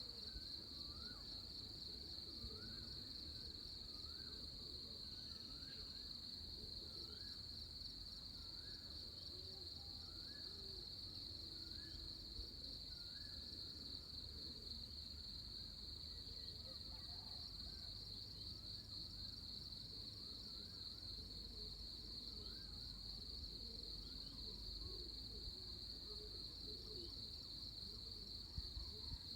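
Dawn chorus in the countryside: a steady high-pitched insect trill with a bird repeating a short call about once a second through the first half, over a low rumble of breeze on the microphone that grows heavier later on.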